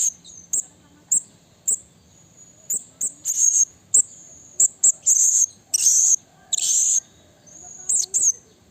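Blue-crowned hanging parrot (serindit) calling: a string of short, sharp, very high-pitched call notes at irregular intervals, some in quick pairs, with a few longer, harsher calls around the middle.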